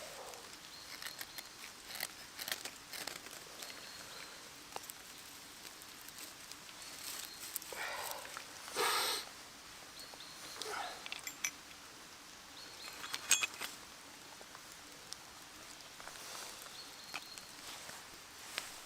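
Quiet handling of fire-lighting kit over cotton-wool-and-Vaseline tinder: scattered small clicks and rustles. There is a short scraping burst about nine seconds in, fainter ones near eight and eleven seconds, and a few sharp clicks around thirteen seconds.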